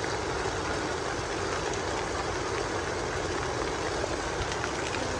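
Steady heavy rain falling, a continuous even hiss with a low rumble of wind on the microphone underneath.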